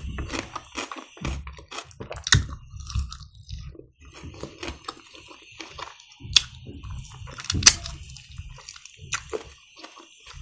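Close-miked chewing of smoked chicken meat: irregular wet mouth sounds, with sharp clicks and smacks from time to time.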